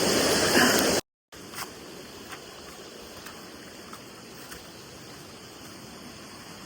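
Rushing stream water, cut off sharply about a second in. After the cut there is only a faint steady hiss with a few soft ticks.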